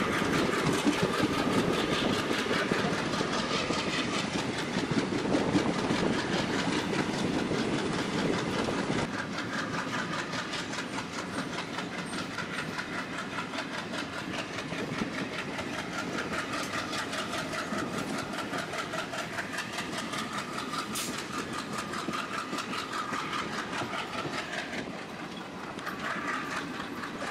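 Indian Railways express train running, heard from an open coach window: wheels clattering rhythmically over the rail joints under a steady rush of running noise, with the train's ALCo diesel locomotive working at the head. The sound drops a little in level about nine seconds in.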